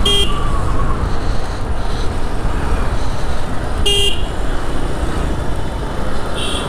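Motorcycle on the move, a steady rumble of engine, tyres and wind buffeting the microphone, with two short vehicle horn toots, one at the start and one about four seconds in.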